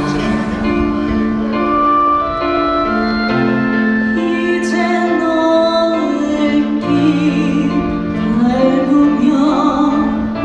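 A woman singing a Korean trot song over a recorded karaoke backing track, played through a PA system, with long held notes.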